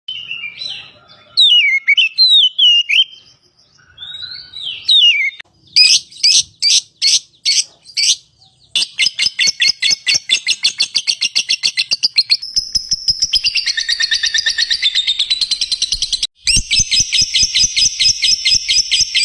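Lovebird calling: a few separate chirps that slide up and down in pitch, then from about six seconds in a fast, continuous chatter of sharp, high chirps repeated many times a second.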